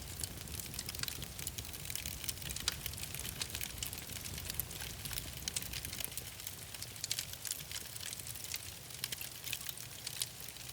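Wood fire crackling: frequent, irregular sharp snaps and pops over a low, steady rumble.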